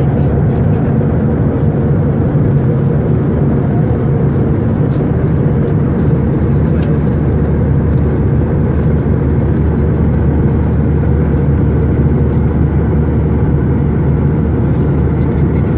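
Steady roar of a Boeing 737-900ER's CFM56-7B jet engines and airflow, heard inside the passenger cabin in flight.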